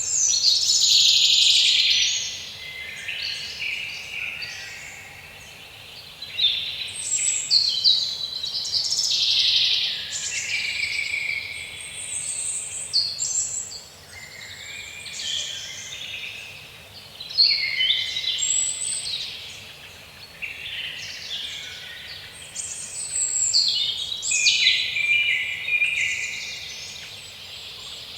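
Several birds singing at once, a dense chorus of overlapping chirps and trills that swells and dips every few seconds.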